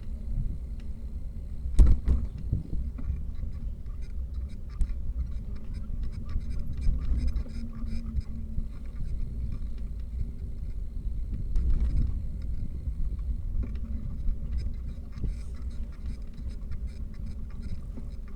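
Steady low rumble of riding on a bicycle, with wind on the microphone, light rattling clicks throughout and two louder knocks, one about two seconds in and one about two-thirds of the way through.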